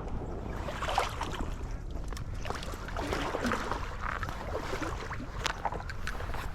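Water splashing and sloshing around a kayak, with irregular light splashes and knocks and a low rumble of wind on the microphone.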